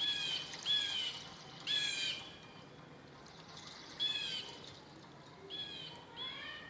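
A bird calling in a series of about six short, harsh calls, each one bending down in pitch, spaced irregularly.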